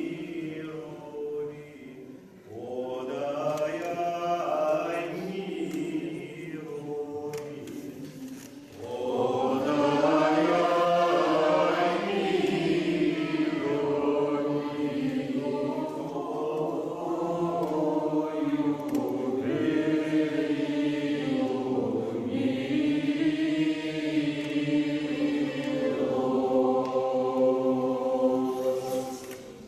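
Group of voices singing an Orthodox znamenny chant in Church Slavonic, unaccompanied, in long held notes. The singing is quieter and breaks briefly in the first seconds, then grows fuller and louder about nine seconds in.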